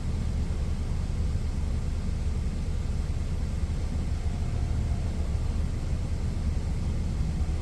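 Steady low rumble of an idling truck engine, running evenly with no changes.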